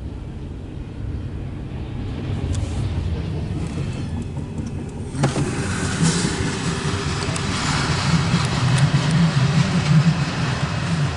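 CSX intermodal freight train passing: a steady low rumble that grows louder. About five seconds in, the noise of wheels on the rails rises suddenly, with scattered clicks and rattles.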